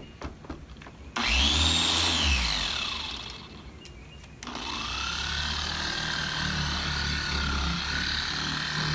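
Electric car buffer (polisher) switched on after a few small clicks, its motor whine rising quickly and then winding down after about two seconds; about four and a half seconds in it starts again and runs steadily, its pitch wavering slightly.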